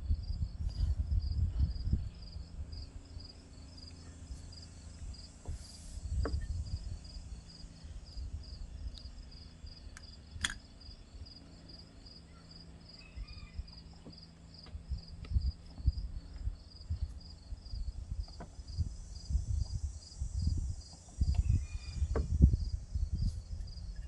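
Crickets chirping in a steady, fast pulsing trill. Irregular low knocks and rustles of handling, with a few sharp clicks, come and go underneath.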